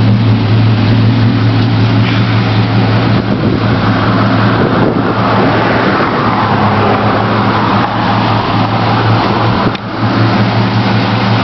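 1977 Chevrolet C10's carbureted V8-era truck engine idling steadily through a Flowmaster exhaust while it warms up after a cold start, with a rushing hiss swelling in for several seconds in the middle.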